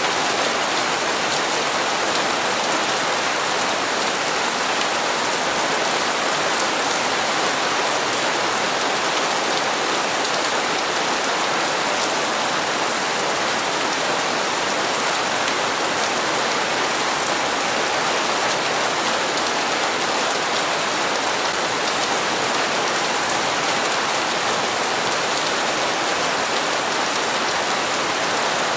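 Steady rain falling and pattering on hard surfaces, an even hiss with no let-up or change in strength.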